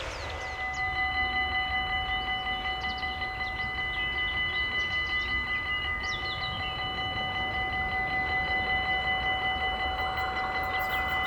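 Railway level-crossing bell ringing with a rapid, even ding, with birds chirping faintly over it.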